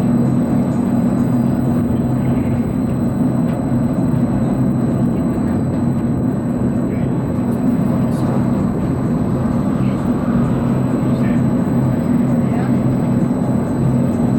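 Steady low machine hum of the Avió aeroplane ride running, with people's voices faintly underneath.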